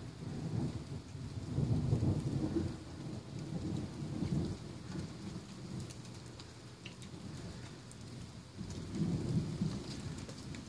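Thunder rolling in long low rumbles, loudest about two seconds in and swelling again near the end, with rain and scattered drips ticking underneath.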